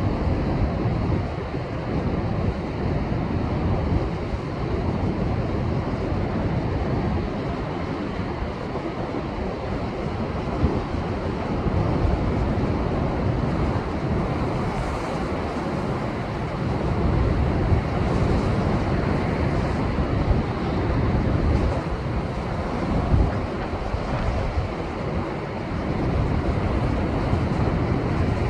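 Heavy surf from a rough post-typhoon swell breaking and washing over shoreline rocks, a continuous low rushing that swells and eases every few seconds. Wind buffets the microphone.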